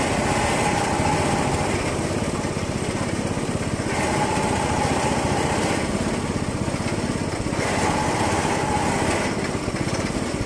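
A small engine running steadily and close, with fast, dense firing pulses. A faint higher whine comes and goes three times.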